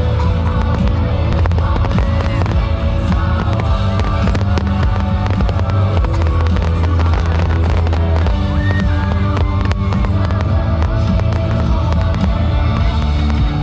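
Fireworks going off in quick succession, many sharp bangs and crackles, over background music with a strong steady bass.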